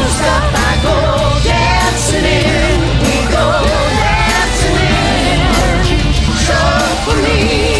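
Karaoke singing over a rock backing track with a steady drum beat; the voice is sung with a wide vibrato.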